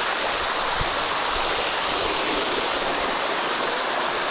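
Water of the sticky waterfall rushing over rock close to the microphone, a steady, even rush.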